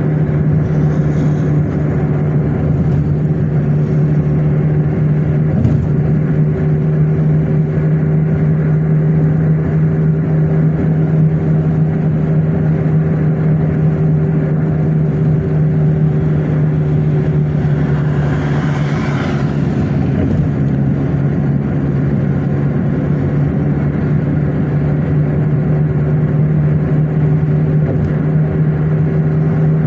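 Car driving along at a steady pace: a steady engine and road hum, with a brief rush of higher noise about two-thirds of the way through.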